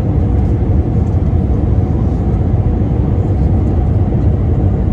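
Cabin noise inside an Airbus A321 airliner: a steady low rumble of the jet engines and airflow, with no change in pitch or level.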